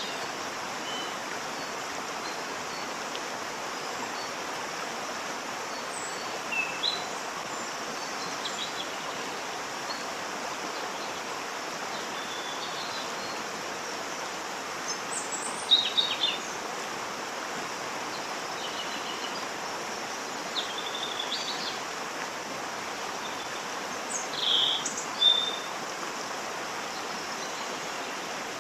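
Steady rush of a waterfall, with a few short bird chirps over it, the loudest about halfway through and near the end.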